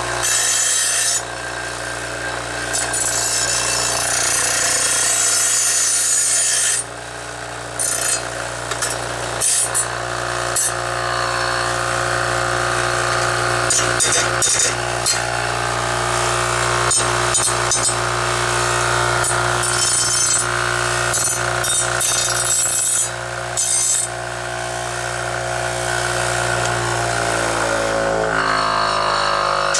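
Electric grinder running against a piece of forged steel, a steady motor whine under a rasping grind that breaks off briefly a few times. Near the end the motor spins down, its pitch falling.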